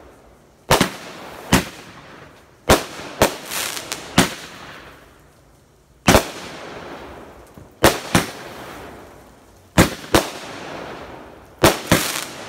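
Aerial fireworks bursting overhead: about a dozen sharp bangs, often in quick pairs, spaced every one to two seconds, each trailing off into a fading echo.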